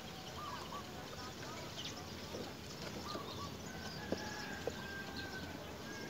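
Birds calling outdoors: a few short up-and-down calls and one long steady whistle lasting about two seconds past the middle, over faint high chirping. Two sharp ticks about half a second apart come a little after the middle.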